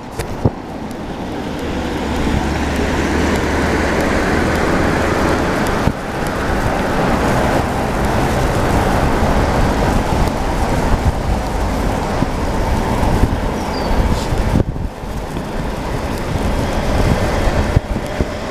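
Wind rushing over the microphone of a GoPro on a moving bicycle, a steady loud rumble and hiss, with road traffic in the background and a couple of brief knocks, one near the start and one about six seconds in.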